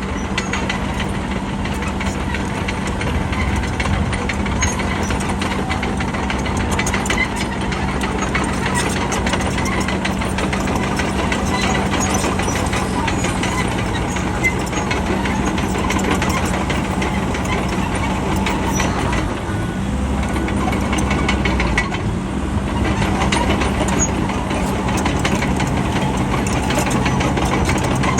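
Bulldozer's diesel engine running steadily under load with a rattling, clanking mechanical noise, its pitch shifting briefly about twenty seconds in.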